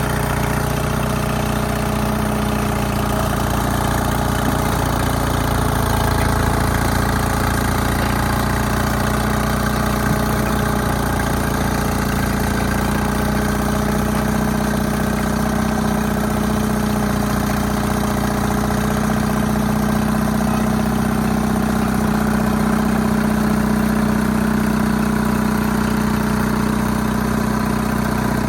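Allis-Chalmers HD5 bulldozer's GM 2-71 two-stroke diesel engine running steadily.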